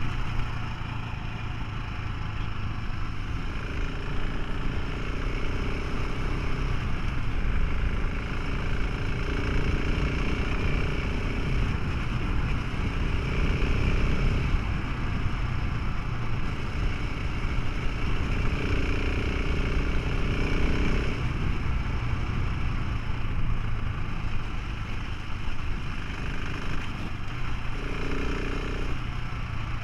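Motorcycle engine running under way, with steady wind and road noise. A low, even engine note holds throughout, while a higher engine tone swells in and fades out several times.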